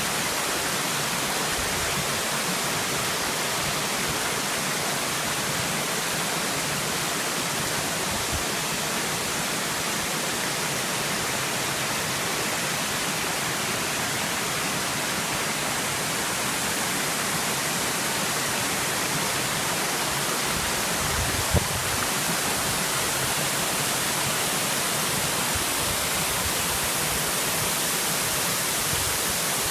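Waterfall: water falling and splashing in a steady, even rush, with one brief low thump a little over twenty seconds in.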